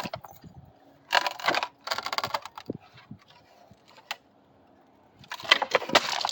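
Wooden deck pieces and their screws being worked loose by hand. There are two short runs of rapid clicking and creaking, a few scattered small knocks, and more clatter near the end.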